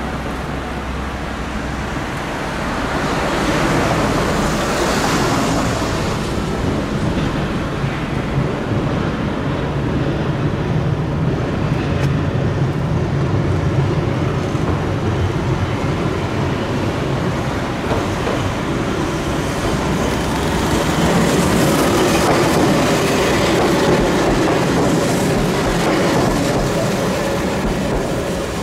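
Keihan 700-series two-car train running along street-running track through a road junction and passing by. Its rumble grows loudest about three-quarters of the way in, with road traffic around it.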